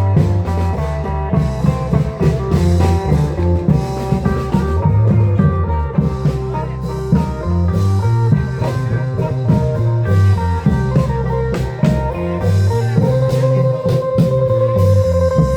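Isan klong yao (long drum) band music: drum beats under a busy plucked-string melody, with a long held note entering near the end.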